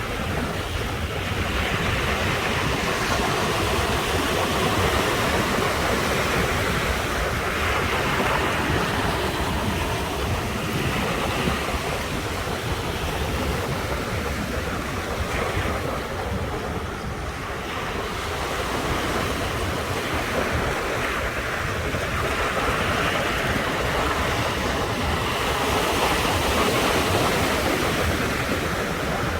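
Ocean surf washing onto the shore in slow swells, with a lull about midway, and wind buffeting the microphone.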